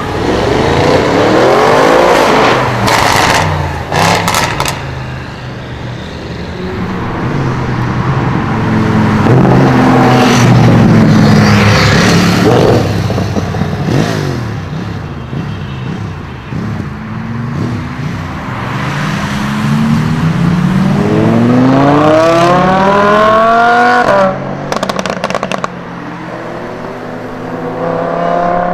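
Modified car engine revving and accelerating hard several times, the pitch climbing steeply and then dropping or cutting off, the longest climb near the end. Sharp cracks like exhaust pops come a few seconds in and again just after that last climb cuts off.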